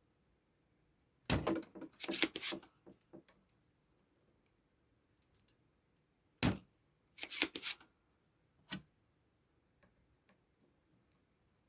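Small hand tools and parts being handled on a circuit board during capacitor replacement: two clusters of sharp clicks and clatter about five seconds apart, then a single click.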